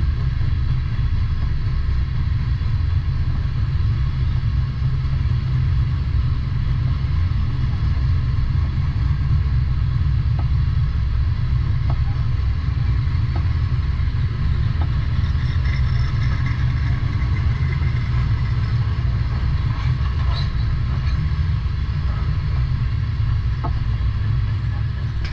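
Freight train of phosphate hopper cars rolling past, a steady low rumble with a few faint clicks from the wheels over the rail, and a brief higher-pitched squeal a little past the middle.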